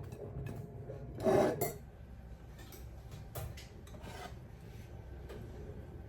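Kitchen handling sounds of dishes and utensils: a short scraping rub about a second in, then a few light clicks and knocks over a low steady hum.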